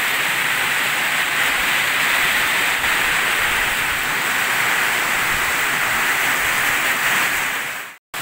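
Heavy rain pouring down in a steady, loud hiss, cutting off abruptly near the end.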